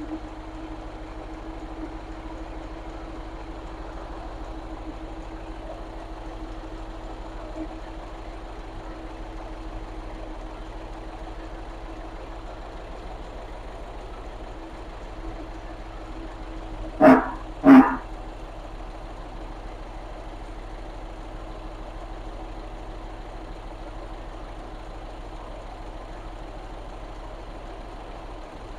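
1921 Leyland double-decker bus engine idling steadily and smoothly, just after a choke-assisted start. A little past halfway, two short, loud calls less than a second apart cut across it.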